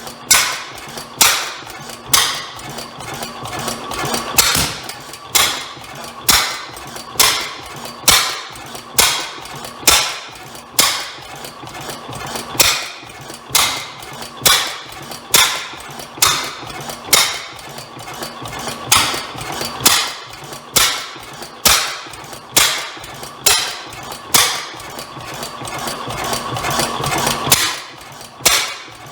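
Rare Bovard & Company antique engine turning over slowly, with a sharp bang about once a second over a steady mechanical hum.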